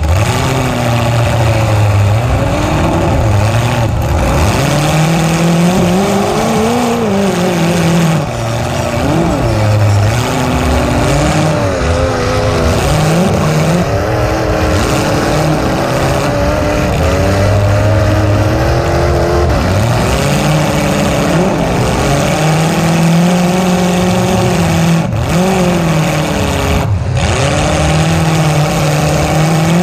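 A demolition derby car's engine, heard close up from its open engine bay, revving up and down over and over as the car manoeuvres, loud throughout.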